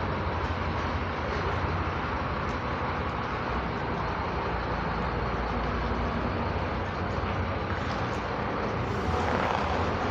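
Comil Campione 3.45 coach running, a steady engine and road rumble that grows a little louder near the end.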